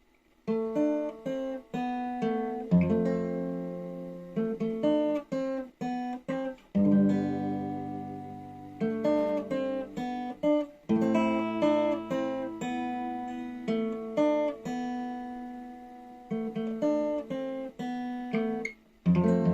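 Acoustic guitar played solo: a picked melody over ringing chords, with occasional strums. It starts about half a second in and has a short pause near the end.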